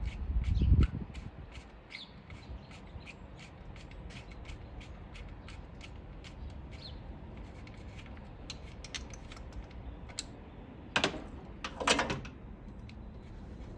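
Work noises during a hands-on engine rebuild: a low thump about half a second in, a faint steady ticking of about three clicks a second, and two sharp knocks a second apart near the end.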